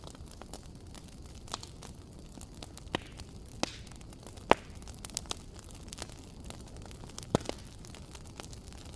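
Wood fire crackling in a fireplace: a steady low rush of burning with irregular sharp pops and snaps, the loudest a little before the middle and again near the end.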